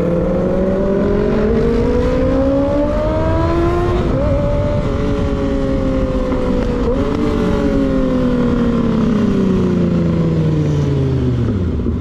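Motorcycle engine under way, its pitch climbing steadily for about four seconds as it accelerates, then holding and slowly falling as it eases off, with two brief dips in the note along the way.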